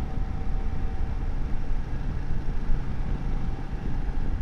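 BMW F750GS parallel-twin motorcycle cruising at a steady speed, heard from on board: a constant low rumble of wind rush and engine with a faint steady whine.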